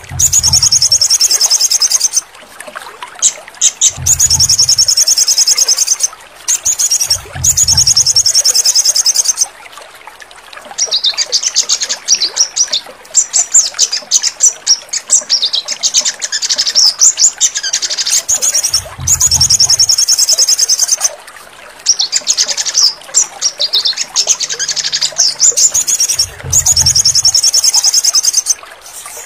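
Crimson sunbird (sogon) song: loud, rapid high-pitched trills and chattering phrases repeated with short pauses, with a few short low thumps between them.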